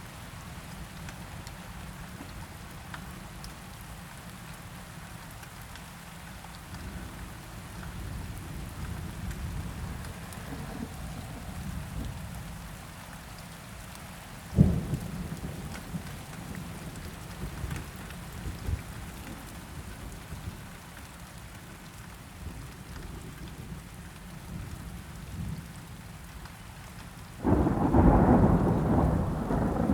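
Rain falling steadily under low, rolling thunder. There is a sharp crack about halfway through, and a loud thunderclap breaks near the end and keeps rumbling.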